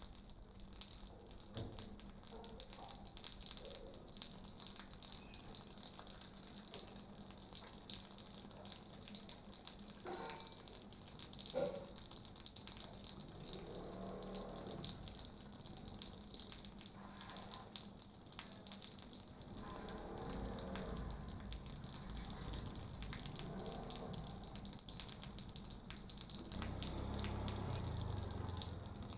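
Water running and splashing steadily: a bright, even hiss dotted with many small splashes.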